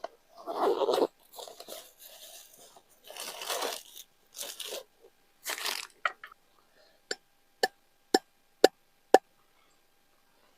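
Crunching, tearing rustles as something is handled, then five sharp ticks about half a second apart, each with a short ring.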